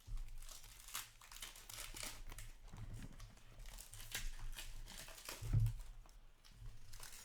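Trading cards and pack wrappers being handled on a table: repeated crinkling and rustling, with a dull thump about five and a half seconds in.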